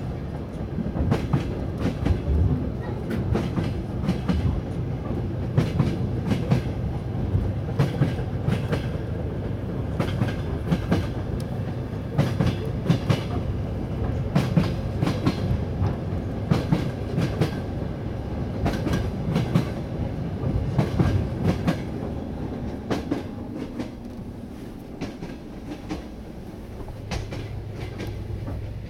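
A train running along the track: a steady low rumble with frequent clicks of the wheels over rail joints, easing a little for a few seconds past the middle.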